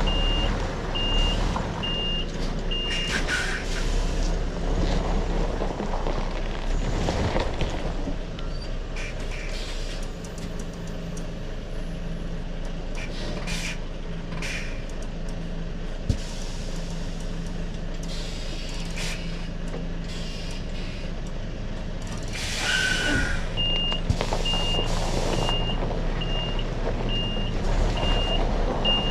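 Articulated HGV reversing, its reversing alarm beeping steadily over the running diesel engine. The beeping stops about three seconds in with a hiss of air brakes as the lorry halts. A longer air hiss comes near the end, and the beeping starts again as it moves back once more.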